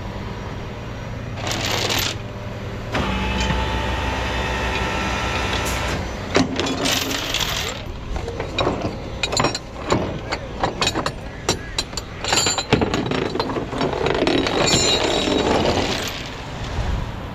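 Rollback tow truck's hydraulics whine steadily for about three seconds over the truck's running engine, then a long run of sharp metallic clinks and clanks from tow chains and hooks being handled and rehooked.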